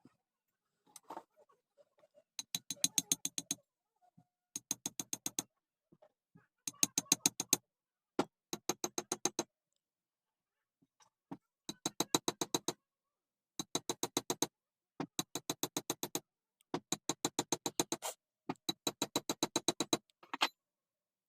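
Repeated bursts of rapid metallic clicking, about ten clicks a second, each burst lasting about a second, nine or so bursts in all. Each click rings at the same metallic pitch.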